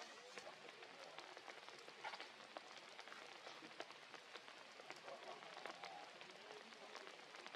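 Rain falling steadily and faintly, with many individual drops ticking throughout.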